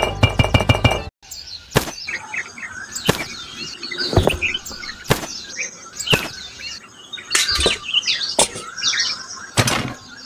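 Background music that stops abruptly about a second in, followed by small birds chirping outdoors with a sharp knock or tap about once a second.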